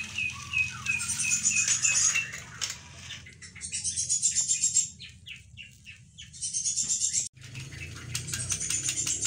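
Bird song: high, rapid trilled phrases about a second long, repeated with short pauses, over a steady low hum.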